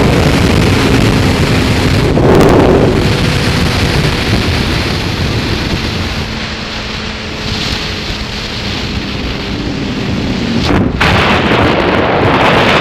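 Heavy wind noise on the microphone at high speed on a Kawasaki ZZR1200 motorcycle, with the inline-four engine running faintly underneath. There are two short breaks in the rush, about two seconds in and near the end.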